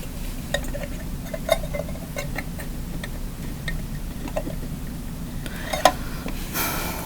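Scattered light clicks and taps of small hard objects being handled, such as pinchers and a glass container, over a steady low hum.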